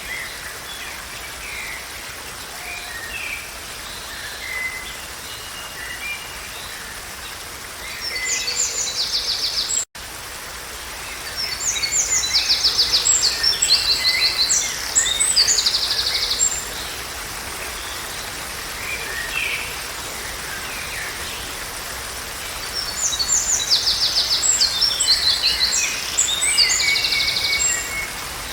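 Songbirds singing: scattered short chirps and three bouts of fast, high-pitched trills, over a steady background hiss. The sound drops out completely for an instant about ten seconds in.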